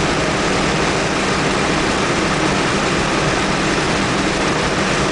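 Cabin sound of a 1997 Dodge Neon's four-cylinder engine, fitted with an aftermarket cold-air intake and exhaust, held at high speed near 150 km/h: a steady engine drone under heavy wind and road noise.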